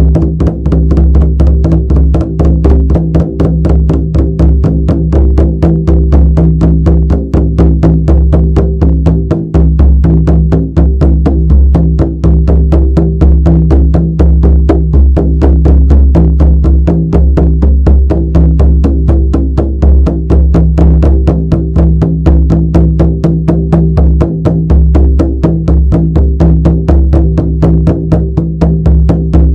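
Shamanic frame drum beaten in a fast, even, unbroken rhythm, the strikes running together over a continuous deep booming resonance.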